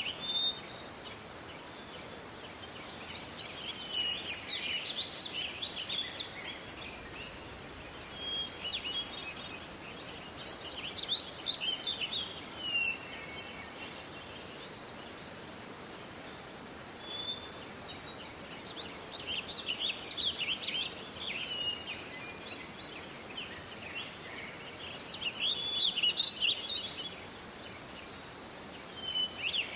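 Small songbirds singing: repeated bouts of quick, varied chirps and whistles, each one to three seconds long with short pauses between, over a steady faint hiss.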